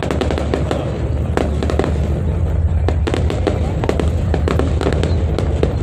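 Fireworks going off: a dense run of quick sharp pops and crackles over a steady low rumble.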